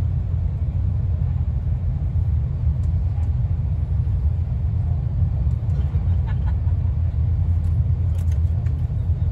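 Steady low rumble of a passenger train running at speed, heard from inside the carriage, with a few faint clicks over it.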